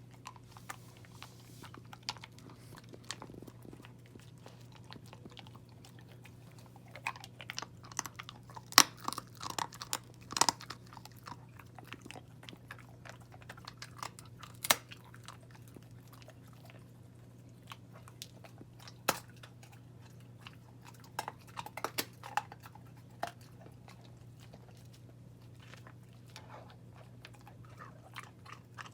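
A puppy chewing and crunching food, in irregular bunches of crisp bites with pauses between.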